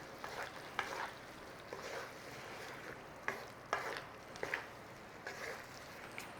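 Chicken stir fry being stirred in a hot pan as its cornstarch-thickened sauce cooks down: a faint sizzle, with the utensil clicking and scraping against the pan a handful of times.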